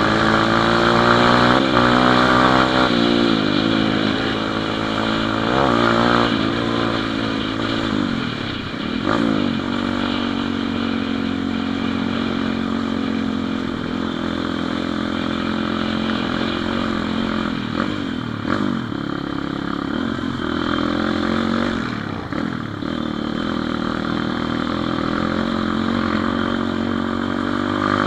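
Pit bike engine, a small single-cylinder four-stroke, accelerating through the gears. The pitch climbs and drops at each shift several times in the first ten seconds or so, then holds fairly steady at cruising speed.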